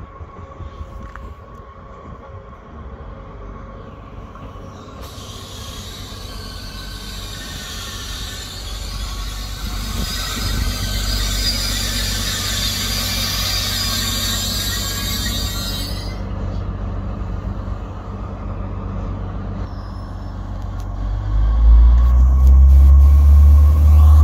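SNCF X 76500 (Bombardier AGC) diesel multiple unit pulling into a station. A low rumble builds as it approaches, then a high squeal from the wheels and brakes lasts about ten seconds as it slows on the curve. Near the end a loud, deep diesel engine throb rises as the cab draws alongside.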